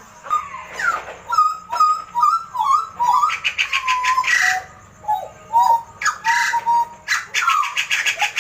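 Butcherbird singing: a varied string of short whistled notes and sliding glides, broken by fast chattering trills about three seconds in and again near the end.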